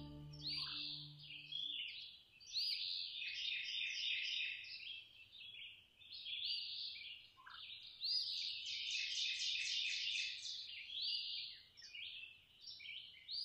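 Songbirds singing in repeated high, chattering phrases a second or two long, with short gaps between them. Background music fades out in the first two seconds.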